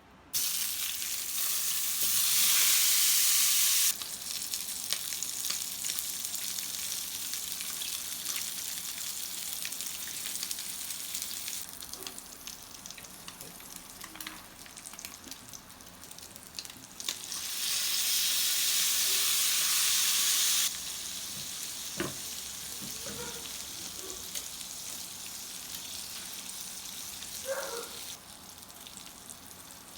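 Food sizzling in a hot frying pan, a steady hiss that starts just after the beginning and swells louder twice, once a couple of seconds in and again a little past the middle. A few faint knocks come later on.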